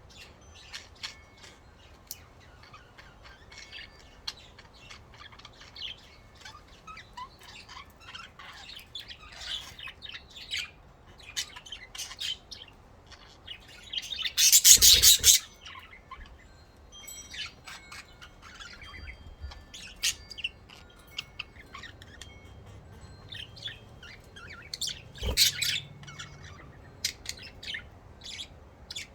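Budgerigars chirping and chattering, a steady stream of short, high chirps. A louder burst comes about halfway through, and a shorter one about three-quarters of the way through.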